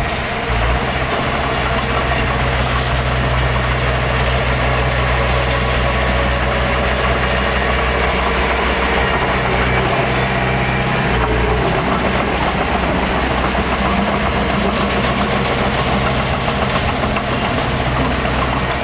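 Heavy diesel engine of earthmoving machinery running steadily, a continuous low drone.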